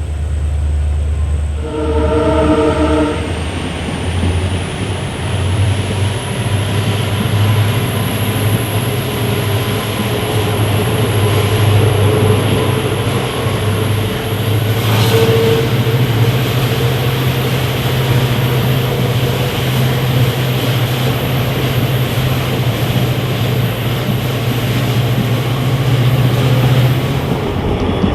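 Train horn blowing once, briefly, about two seconds in, then the train running steadily with a low drone and a thin high whine that rises in pitch over the first several seconds.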